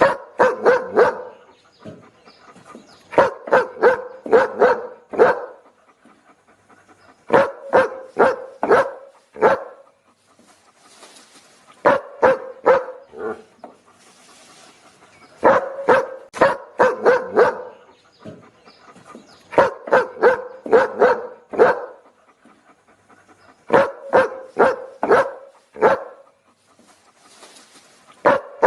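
A dog barking in repeated volleys of about four to six quick barks, a new volley roughly every four seconds, with short pauses between.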